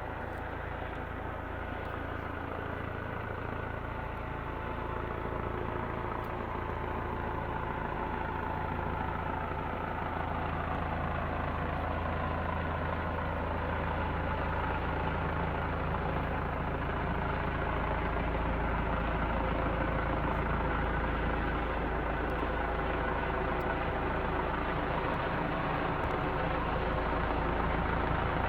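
Police helicopter flying overhead: a continuous rotor and turbine drone, its pitch slowly drifting and the sound growing gradually louder.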